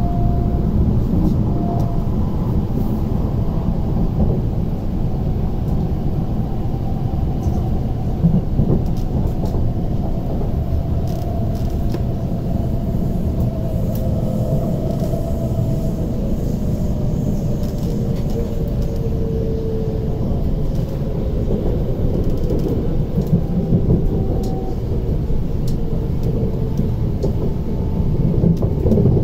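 MTR SP1900 (IKK-train) electric multiple unit heard from inside the passenger car while running at speed: a steady rumble of wheels and running gear on the track, with a faint whine that slowly drifts in pitch.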